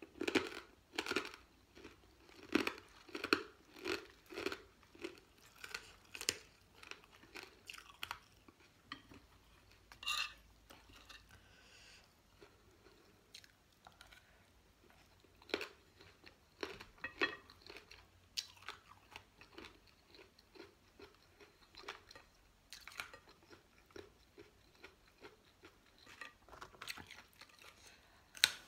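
A person chewing and crunching a mouthful of spicy rice-noodle salad and fresh raw vegetables such as carrot and lettuce. The chewing is steady, about one to two bites a second, over the first several seconds, then turns into sparser, scattered crunches.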